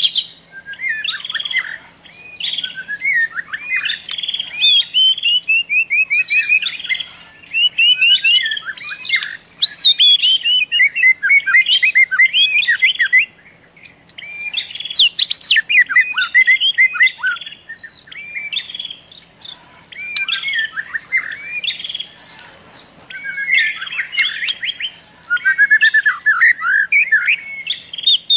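Songbirds chirping and singing without pause, a dense run of quick notes sweeping up and down, over a steady thin high-pitched tone.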